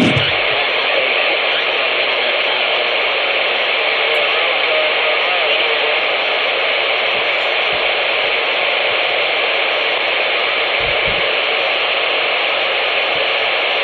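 Steady hiss of static from a CB radio's speaker on an open channel, with no readable voice, starting with a short click.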